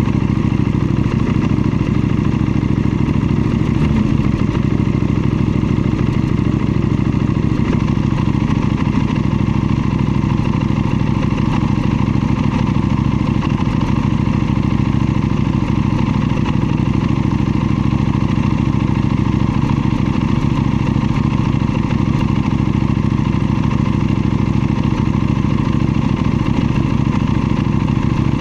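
KTM 790 Duke's parallel-twin engine running at a steady engine speed, with no revving up or down.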